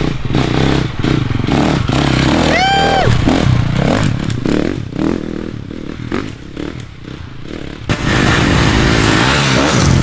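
Off-road enduro motorcycle engines running and revving as riders pass on the trail. A short high-pitched tone rises and falls about three seconds in. Near the end the sound switches abruptly to a louder, denser noise.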